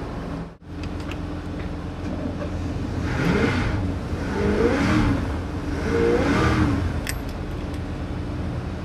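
Engine running steadily, then revved up and back down three times in quick succession.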